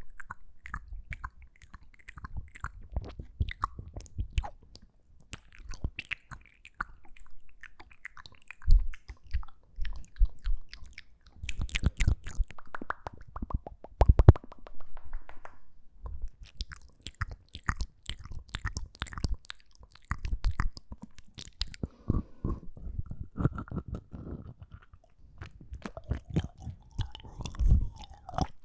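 ASMR mouth sounds: a dense, irregular run of small clicks and smacks from the mouth.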